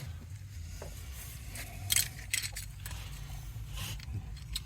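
Small metallic clicks and clinks of a hand tool and loose trim parts being handled, a few sharp clicks about two seconds in and again near the end, over a low steady hum.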